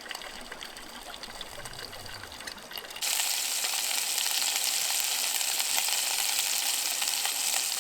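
Trout fillets sizzling in hot oil in a small camp frying pan, a dense steady crackling hiss that comes in suddenly and loud about three seconds in. Before it there is a softer steady rush of running water.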